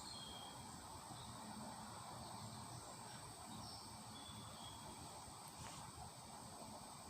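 Faint background ambience: a steady high-pitched whine with a few brief, faint high chirps scattered through it.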